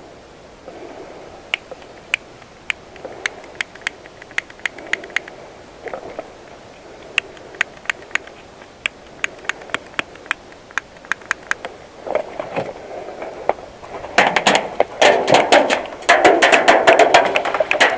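Airsoft guns firing: scattered single sharp shots at first, then a dense, louder run of rapid shots with rustling about two-thirds of the way in.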